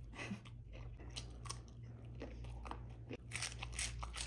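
Close-up mouth sounds of eating: chewing braised beef rib with wet smacking, then a run of sharp crunches near the end as a raw cucumber is bitten. A steady low hum runs underneath.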